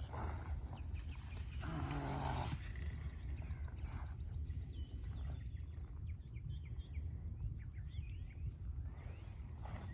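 Steady low outdoor rumble, like wind on the microphone, with many faint short bird chirps. About two seconds in there is a brief low moaning call or grunt.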